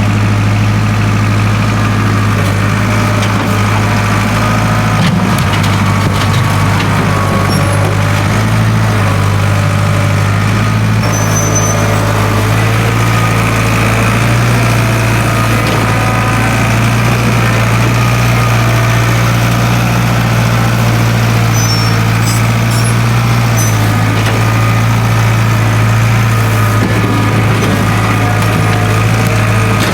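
International Harvester 270A backhoe's diesel engine running steadily at idle on its rebuilt injection pump.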